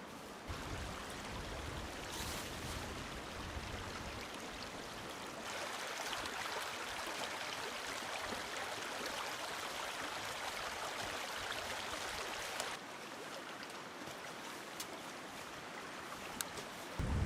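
Flowing stream: a steady rush of running water, louder from about five seconds in and dropping back abruptly near thirteen seconds.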